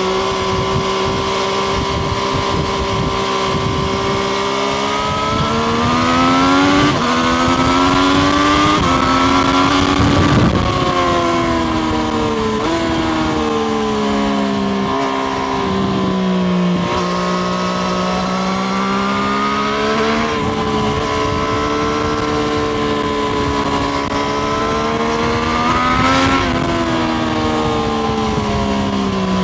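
Triumph Street Triple RS's 765 cc inline-three engine heard from on the bike while riding, with wind noise. It runs steadily, then revs up with a couple of gear changes from about four seconds in, drops back in steps as the bike slows, and revs up briefly once more near the end.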